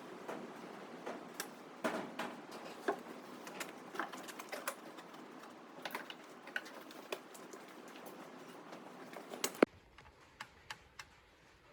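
Irregular light clicks and taps over a steady hiss, with one sharp, loud click about nine and a half seconds in, after which the background drops away and only a few faint clicks remain.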